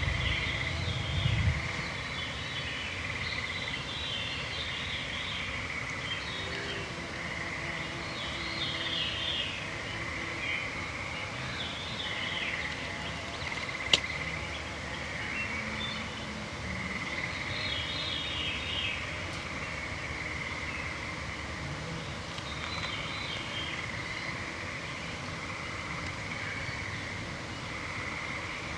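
Evening chorus of woodland songbirds singing phrase after phrase over a steady, unbroken high trilling of frogs and toads. A low thump comes about a second in and one sharp click near the middle.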